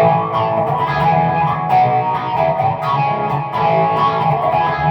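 Electric guitar (PRS SE Hollowbody II with humbuckers) played through a Peavey Vypyr X2 modelling amp with its overdrive stomp-box effect on: sustained, ringing notes and chords with fresh picked attacks every second or so.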